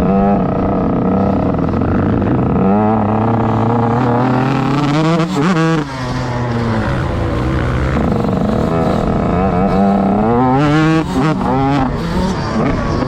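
Motocross bike engine under hard riding, revs climbing and then cut back sharply about five seconds in, then rising and dropping again near the end as the throttle is opened and closed.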